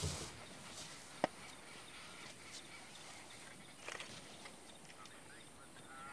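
Quiet outdoor background hiss with a single sharp click about a second in, then a bird giving a few short, warbling calls near the end.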